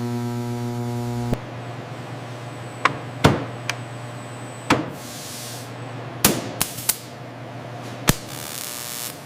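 A held, droning musical tone cuts off about a second in. A steady low hum follows, with a series of sharp knocks and clicks, several close together near the middle, and two short bursts of hiss.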